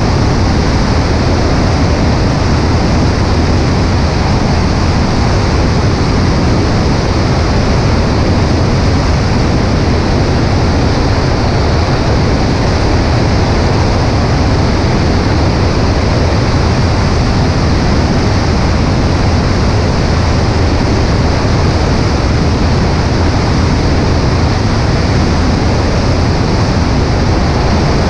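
Cessna 140A's engine and propeller running steadily, mixed with a loud, even rush of wind over a camera on the right wing.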